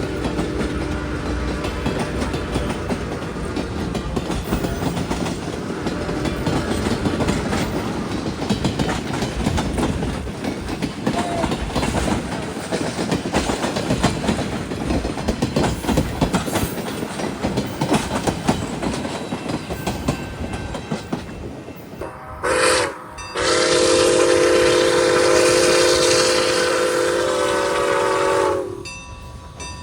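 Train rolling past close by, its wheels clattering over the rail joints, then the locomotive's horn: a short blast followed by a long blast of about five seconds, several notes sounding together.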